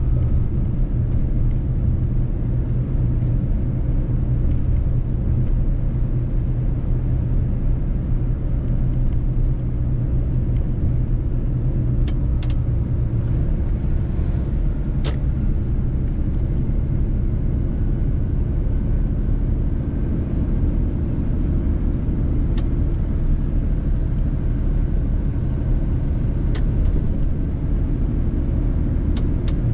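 Mercedes-Benz truck under way: its engine and tyres make a steady low rumble. A few faint sharp clicks come now and then.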